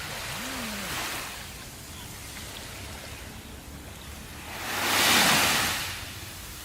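Sea waves washing onto a shore: a small wash about a second in, then a larger wave surging in and drawing back, loudest about five seconds in.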